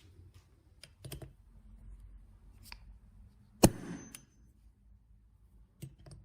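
Light clicks and taps of small carburetor parts and tools being handled, with one sharp metallic clack a little past halfway that rings briefly.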